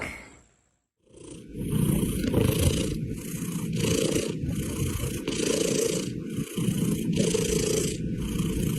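A cat purring, a rough steady rumble that comes in repeating breath-like cycles, starting about a second in.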